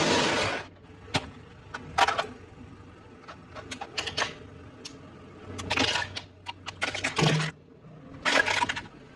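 Close-up eating sounds: irregular crunches, clicks and wet chewing, with a short noisy crunch at the start and denser clusters about six and eight and a half seconds in.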